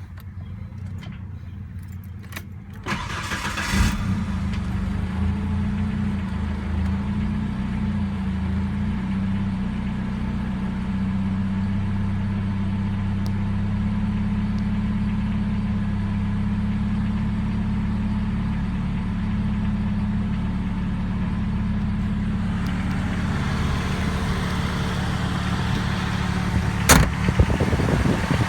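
Turbocharged Ford 2.3 L Lima four-cylinder with a swapped-on Volvo B234F DOHC head, starting up. It catches about three seconds in and settles into a steady, smooth idle. A sharp click near the end.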